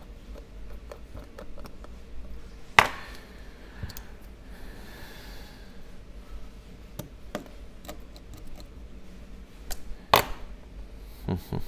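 Small clicks and taps of tools and tiny phone parts being handled, with two sharper clicks, one about three seconds in and one near the end.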